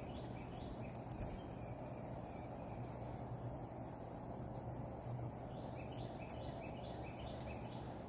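Backyard ambience with a steady background hiss and low hum. A bird calls in quick runs of short repeated notes, during the first second and again from about five and a half seconds in.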